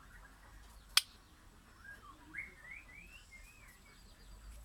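A sharp click about a second in, then a white-crowned shama gives a run of short whistled notes that rise and fall.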